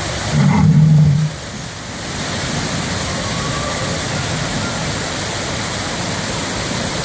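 Steady rushing of falling water, opened by a loud, low, pitched rumble that lasts about a second near the start.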